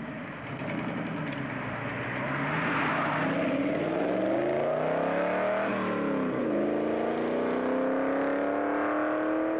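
Hot rod V8 accelerating hard from the line, its revs climbing steadily, dropping sharply at a gear change about six seconds in, then climbing again.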